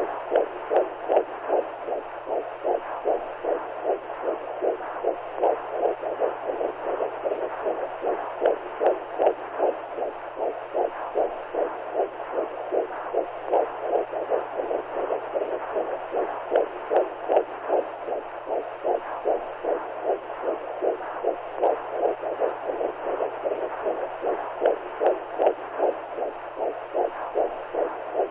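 Womb sound: a whooshing, heartbeat-like pulse of blood flow as heard inside the mother's belly, repeating in a fast, even rhythm over a steady low hum.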